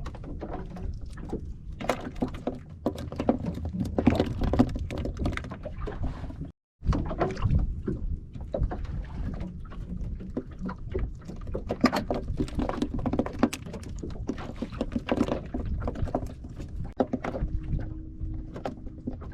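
Irregular knocks and thuds on a small fishing boat, over a steady background of water and movement. The sound drops out completely for a moment about six and a half seconds in, and a faint steady hum comes in near the end.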